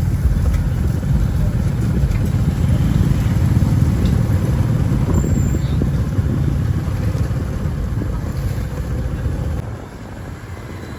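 Steady low outdoor rumble of road traffic, with wind buffeting the microphone; it drops to a quieter level near the end.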